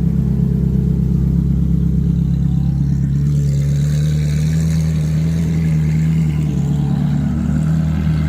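Car engine running at low revs, a steady low hum that steps slightly up in pitch about three seconds in.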